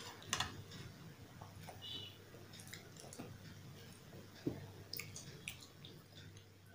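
Close-miked mouth sounds of eating sweet rice pudding (kheer): soft, wet chewing with lip and tongue clicks. There are a few sharper clicks, the loudest about half a second in and around four and a half to five seconds.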